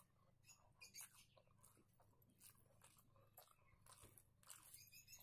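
Faint, close-up chewing and wet mouth sounds of a person eating rice and egg curry by hand, with soft irregular clicks and smacks.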